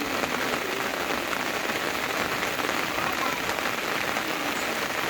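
Steady, fairly loud rain falling, a dense even patter with no break.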